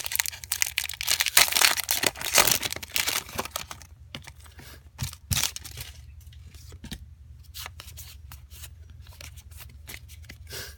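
Foil trading-card booster-pack wrapper being torn open and crinkled for about the first four seconds, then a few light clicks and rustles of cards being handled.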